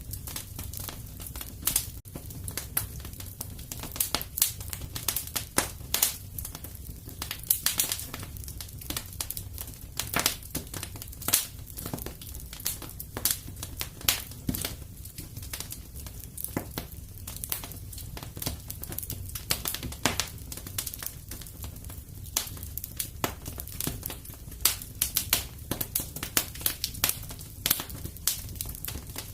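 Wood fire crackling and popping in a fireplace: irregular sharp snaps over a low steady rumble of the flames.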